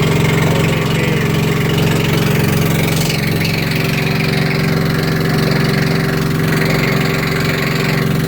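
A boat's engine running steadily with an even, unchanging drone.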